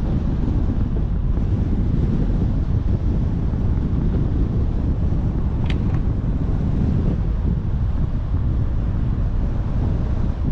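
Wind buffeting the microphone: a steady, loud low rumble. A brief high-pitched chirp cuts through once, a little past halfway.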